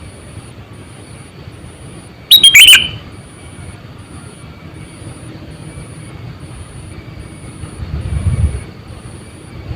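Sooty-headed bulbul (kutilang) giving one loud, short burst of calls about two seconds in. Under it a faint high pulse repeats about every half second, and a low rumble swells and fades near the end.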